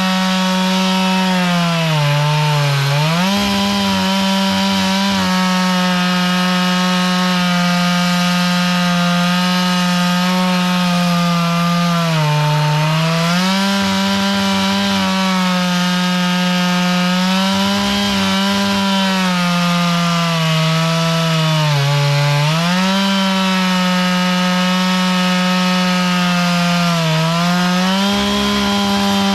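Chainsaw mill ripping through a log: the two-stroke saw runs near full throttle under steady load, its pitch sagging briefly a few times as the chain bogs in the cut, then recovering.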